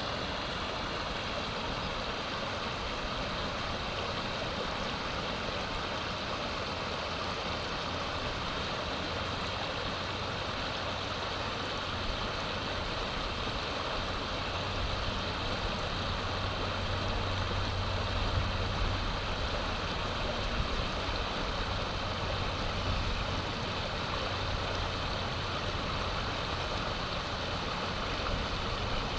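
Steady rush of flowing river water, with a low steady hum beneath it that swells for a few seconds midway.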